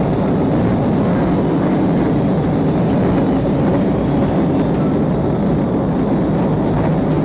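Steady engine and road noise of a patrol car driving fast during a pursuit, heard from inside the car.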